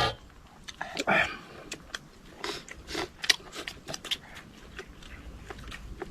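Close-up eating sounds: biting and chewing with scattered clicks and crunches, and a brief vocal sound about a second in.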